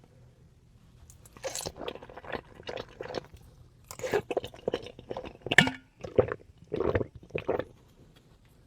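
Close-miked eating: a run of irregular crunching bites and chewing, starting about a second in and stopping near the end.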